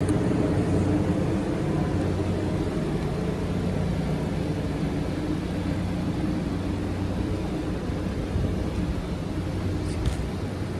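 A 2021 Audi TTS's turbocharged 2.0-litre four-cylinder idling steadily with a low hum.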